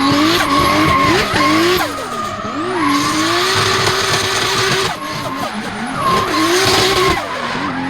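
Toyota Supra Mk4 drift car's engine revving up and down over and over while its tyres skid and hiss through a drift, the revs held steady for a couple of seconds midway.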